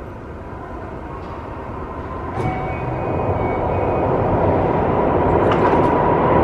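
Keio 5000 series commuter train starting to pull away from the platform after its doors have closed: a click about two and a half seconds in, then running noise that grows steadily louder as it gets under way.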